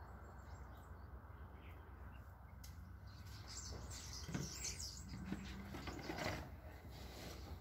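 Faint bird chirps over a steady low outdoor rumble, busier in the second half.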